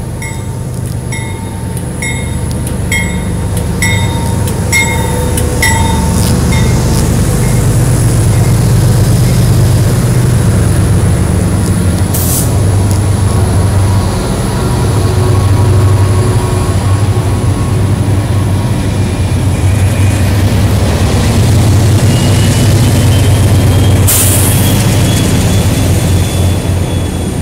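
CSX diesel locomotives rumbling past, growing louder over the first several seconds. A bell rings about one and a half strikes a second and stops about seven seconds in. Two short hisses come near the middle and later, and a thin high squeal of the kind steel train wheels make runs through the last few seconds.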